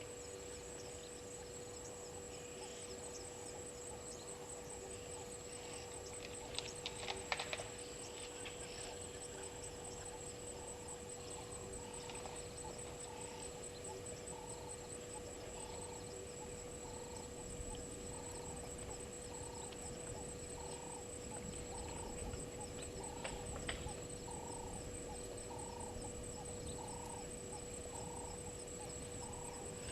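An animal call, a short note repeated about once a second, over a steady hum. A few sharp clicks come about seven seconds in.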